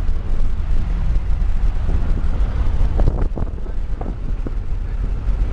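A steady low rumble, with faint voices in the background about halfway through.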